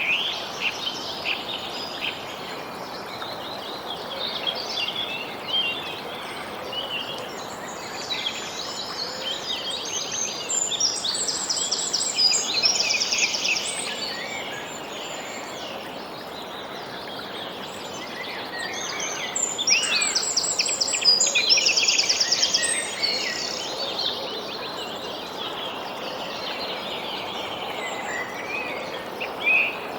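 Songbirds chirping and calling over a steady background hiss, with a long rapid trill about a third of the way in and another about two-thirds of the way in.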